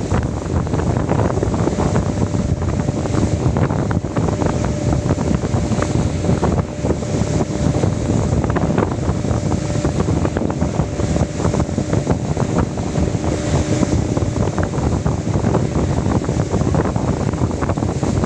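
Strong wind buffeting the microphone, with a faint steady hum underneath.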